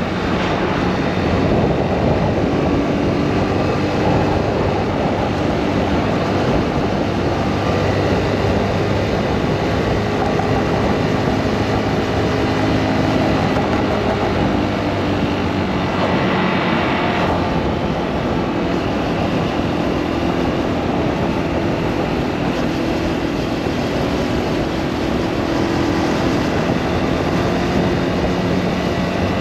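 Motorcycle engine running steadily while being ridden, with a constant rushing noise over it and a pitch that drifts only slightly.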